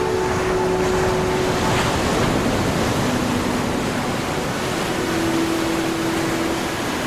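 Ocean surf washing steadily, one wave swelling about two seconds in. Faint held tones sit underneath and change pitch now and then.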